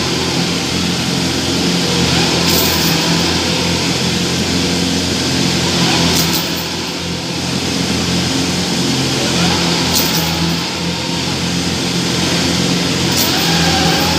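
Combine harvester diesel engines running steadily under load, towing a combine mired in mud. A few sharp clicks cut through about every three to four seconds.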